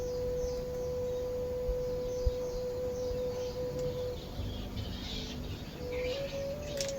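Calm background music: one long held pure note for about four seconds, then a few slow notes stepping up and down near the end. Bird chirps run underneath and grow livelier in the second half.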